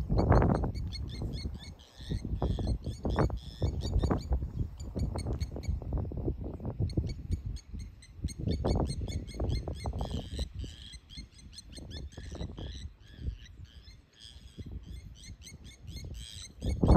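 Small birds chirping repeatedly in the background over a louder, uneven low rumbling noise, with occasional dull knocks.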